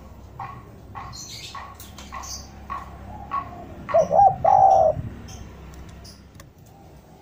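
Spotted dove (derkuku) cooing: about four seconds in, two quick coos then a longer, louder coo. Fainter short chirps of small birds come before it.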